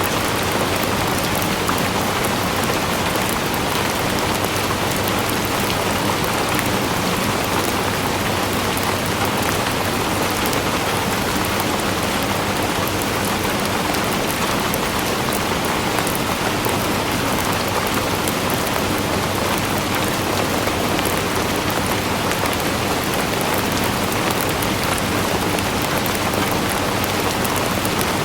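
Steady rain falling and pattering on a surface, an even hiss of many drops with no change in intensity.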